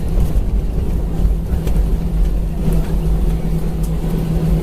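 Airbus A320 cabin noise from a window seat, with the jet engines running at low power during taxi: a steady rumble and a steady hum, with a few faint clicks.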